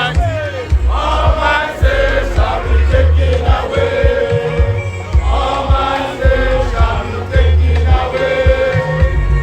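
A group of voices singing a chant-like song over a heavy bass and a steady drum beat.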